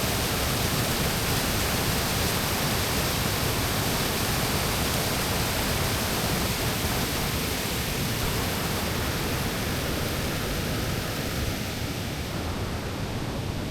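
Steady, even rushing noise with no distinct events, easing slightly near the end.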